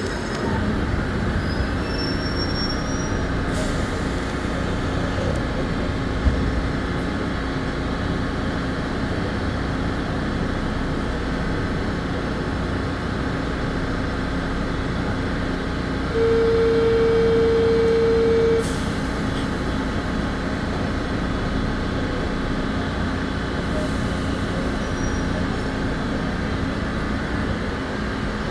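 Belo Horizonte Metro 900-series electric trainset running steadily along the line, a continuous rumble and hum. About sixteen seconds in, a steady single-pitch tone sounds for about two and a half seconds, louder than the running noise.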